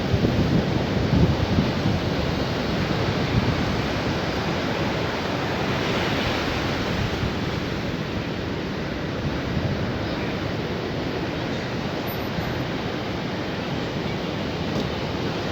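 Sea surf: waves breaking and washing up the shore in a continuous rush. Wind buffets the microphone, with low gusts heaviest in the first few seconds. A brighter wash of surf swells about six seconds in.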